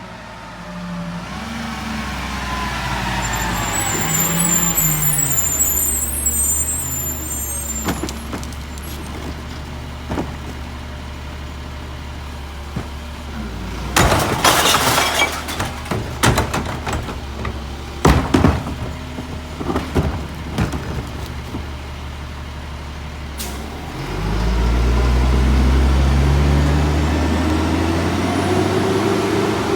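Peterbilt McNeilus rear-loader garbage truck's diesel engine revving up and easing off. About halfway through comes a loud hiss of air brakes, then a series of sharp bangs. Near the end the engine revs up hard again and holds.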